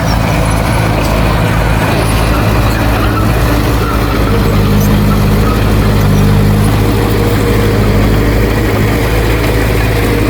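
Heavy diesel engine of earthmoving equipment running steadily. From about four seconds in it works a little harder, and the sound is slightly louder for a few seconds.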